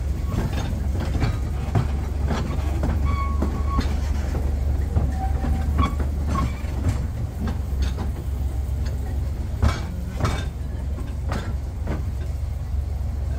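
Narrow-gauge passenger train running along the track, heard from aboard an open coach: a steady low rumble with irregular clacks and knocks of the wheels over the rail joints.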